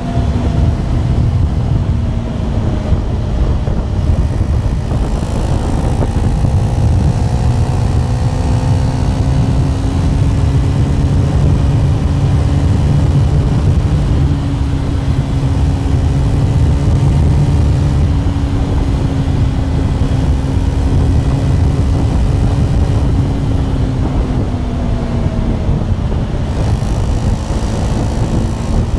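KTM 390 Duke (third generation) single-cylinder engine and exhaust running at a steady cruise under a rider. The engine note rises a little after about five seconds, holds, and eases back down near the end.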